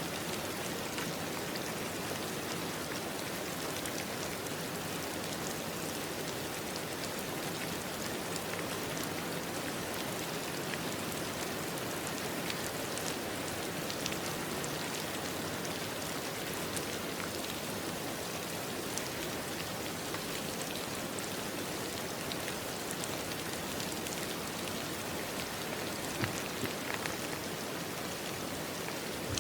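Steady rainfall: an even hiss of rain with scattered individual drops pattering on a surface, and a few slightly louder drips near the end.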